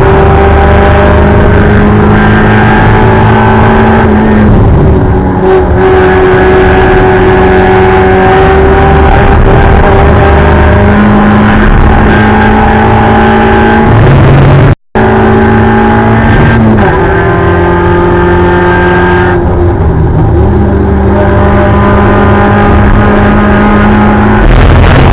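Spec Miata race car's four-cylinder engine running hard at high revs. Its pitch climbs slowly between gear changes, with lifts off the throttle about five seconds in and again around seventeen to twenty seconds in. The sound cuts out for an instant around the middle.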